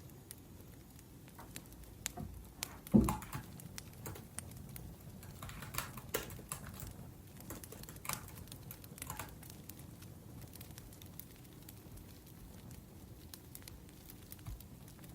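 Typing on a laptop keyboard, scattered clicks, over the low crackle of a wood fire. A single loud low thump about three seconds in.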